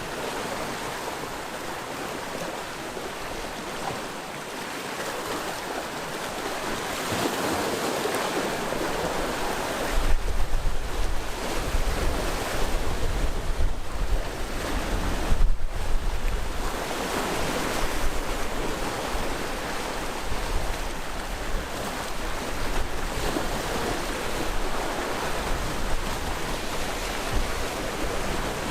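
Sea waves breaking and washing along the shore, a steady surging rush that swells and ebbs. From about a third of the way in, wind buffets the microphone with a low rumble underneath.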